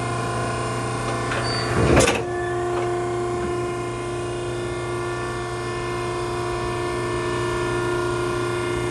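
Maren cardboard baler's hydraulic power unit running with a steady multi-tone hum; about two seconds in there is a short loud burst of hiss, after which a new steady tone joins the hum as the load on the machine changes.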